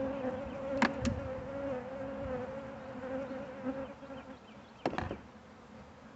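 Honeybees buzzing around an open hive: a steady hum at one slightly wavering pitch. Two sharp knocks about a second in and another pair near five seconds in.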